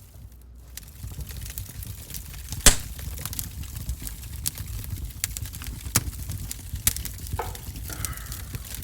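Wood fire in a wood-burning stove crackling, with irregular sharp pops over a low rumble, one loud pop a little under three seconds in.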